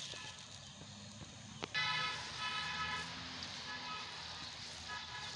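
A motor vehicle passing nearby, starting just after a sharp click less than two seconds in. Over its low running sound, a steady-pitched tone sounds in spells.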